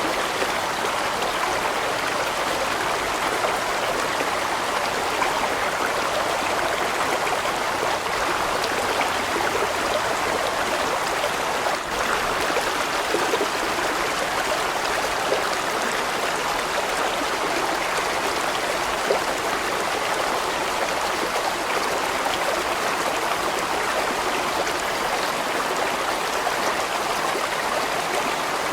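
A large stream flowing steadily: a dense, even sound of running water with no let-up.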